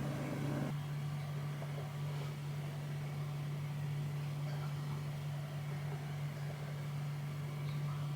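A steady low hum, unchanging throughout, with no other distinct sounds over it.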